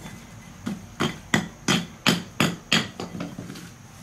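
Eight sharp knocks in quick succession, about three a second, from hard objects being struck while a traditional wood-fired kiln is being opened.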